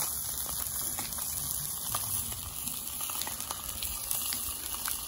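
Steady sizzle of food frying on a Camp Chef flat-top griddle, crackling with many small pops.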